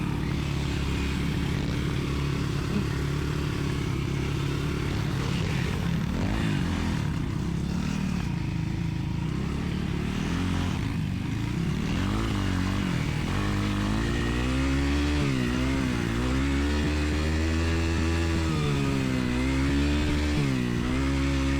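Dirt bike engine running under way, steady at first, then revving up and down repeatedly with the throttle from about halfway through.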